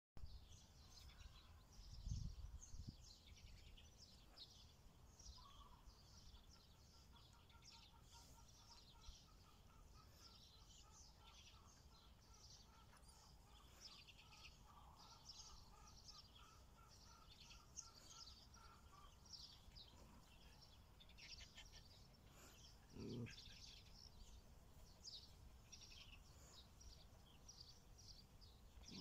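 Faint outdoor ambience with many small birds chirping. A quick repeated trill runs through the middle stretch. Two low thumps come, one about two seconds in and one about three-quarters of the way through.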